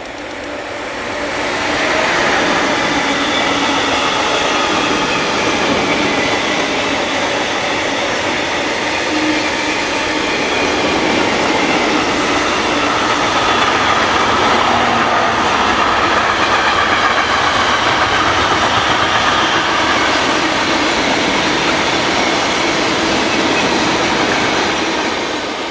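Freight train of tank wagons hauled by a Class 186 electric locomotive passing close by, its wheels running on the rails. The sound builds over the first two seconds, holds steady while the wagons go by, and fades near the end.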